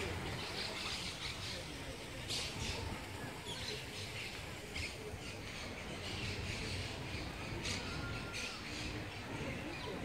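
Birds chirping and calling in short, scattered high notes, over a steady low background rumble.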